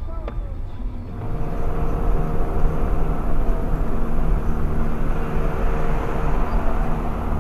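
Car under way, heard from inside the cabin: steady engine hum and road noise that start suddenly about a second in.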